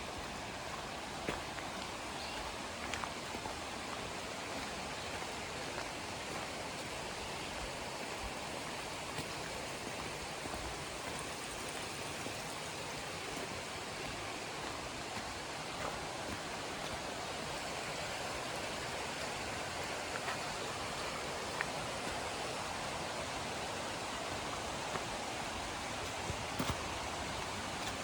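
River water rushing steadily, an even wash of sound, with a few faint ticks now and then.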